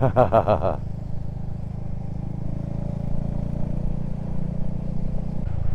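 Motorcycle on the move at a steady road speed: a low engine drone mixed with wind rush, with the engine note changing abruptly near the end.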